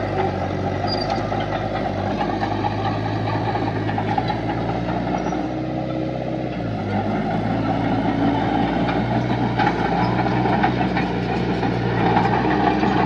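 Heavy diesel engine of earthmoving machinery running steadily under load. Its note shifts briefly about halfway through, then settles again.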